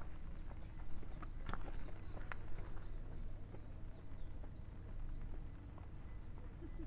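Outdoor ambience: a steady low rumble with scattered clicks and taps, a few sharper ones about two seconds in, and faint short high chirps.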